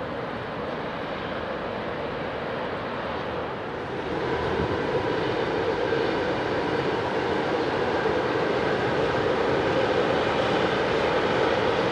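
Container freight train running past with a steady rumble of wheels on rail. About four seconds in it turns louder as a CFR Marfă electric locomotive passes close, and keeps building slowly.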